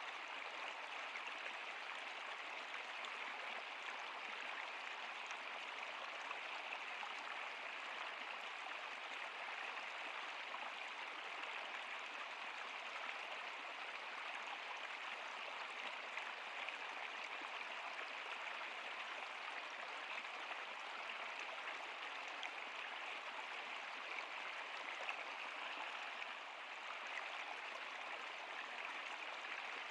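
Flowing stream water running steadily, an even rushing babble with no break.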